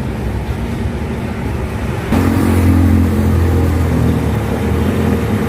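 Road traffic noise with a motor vehicle's engine running close by: a low steady engine drone comes in about two seconds in and is the loudest thing heard.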